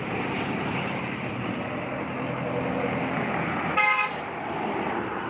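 Road traffic noise, with one short vehicle horn toot about four seconds in.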